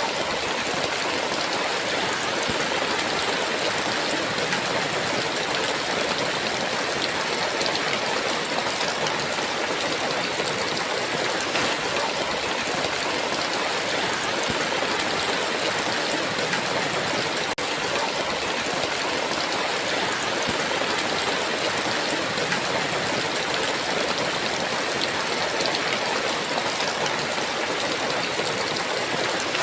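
Heavy rain falling steadily, a dense even hiss, with one momentary dropout a little over halfway through.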